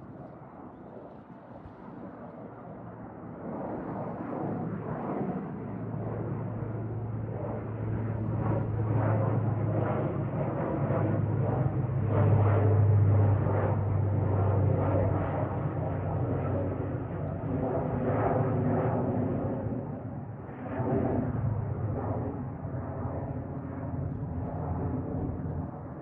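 ATR 72-600 freighter's twin PW127 turboprops at takeoff power, a steady low propeller hum over engine roar. It grows louder to a peak about halfway through, then fades as the aircraft goes away.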